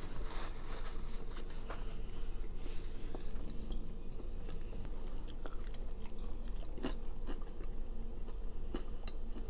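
A person chewing food close to the microphone, with scattered short crisp clicks and smacking mouth noises over a steady low hum.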